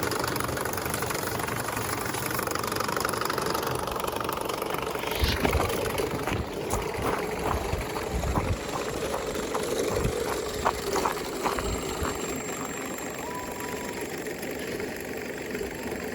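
A steady machine hum, like an engine running, with a run of irregular clicks and knocks through the middle.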